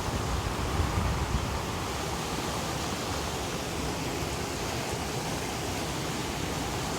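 Steady rain falling, an even hiss with no distinct drops or events.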